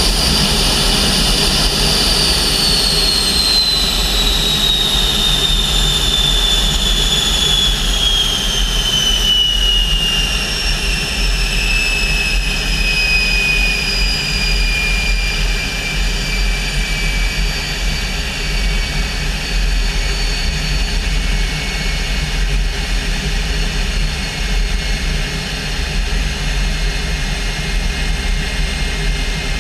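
L-29 Delfín's Motorlet M-701 turbojet running on the ground, its high whine falling steadily as the engine spools down from a higher power setting, then settling to a steady whine at a lower speed about twenty seconds in.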